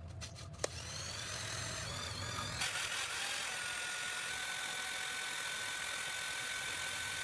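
A machine running steadily, a hiss with a single steady whine on top, growing louder about two and a half seconds in; a sharp click comes just before it starts.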